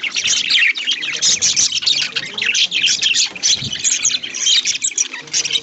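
A flock of budgies chirping and chattering continuously, many short high chirps overlapping.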